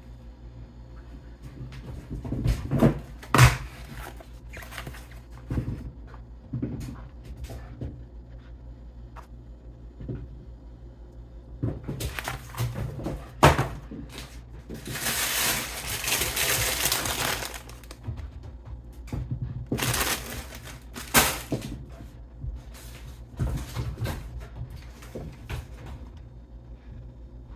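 Scattered knocks, clicks and clatter of things being handled, with about three seconds of rustling or hissing noise about fifteen seconds in and a shorter noisy patch about twenty seconds in.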